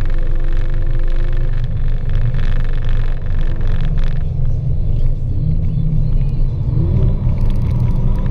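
Mercedes-AMG A45's 2.0-litre turbocharged four-cylinder engine driven hard on a race track, heard from inside the cabin with tyre and road noise. The higher hiss drops away suddenly about four seconds in, and the engine note climbs in pitch again near the end.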